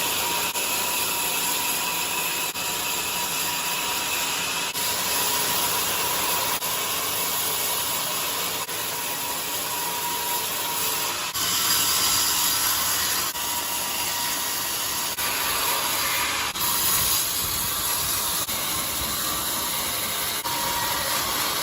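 Band sawmill cutting through a jackfruit log: a steady rushing saw noise with a faint whine that turns harsher for a few seconds about halfway through and again a little later.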